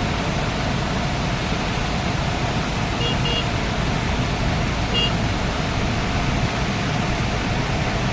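Rain falling steadily, an even hiss, with two short high chirps about three seconds in and another about five seconds in.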